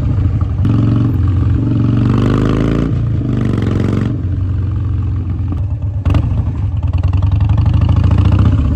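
Harley-Davidson Dyna Street Bob's V-twin engine and exhaust accelerating: the pitch rises for about two seconds, breaks at a gear change, rises again briefly, then settles into steady, lower running.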